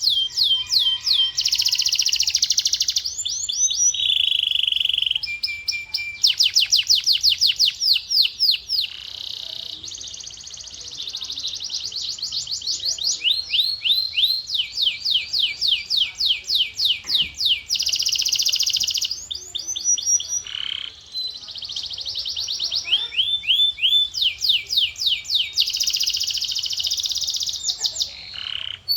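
Male domestic canary singing: a long run of rapid repeated phrases, fast trills of rising and falling notes alternating with held buzzy tones and rolls, each phrase changing every second or two.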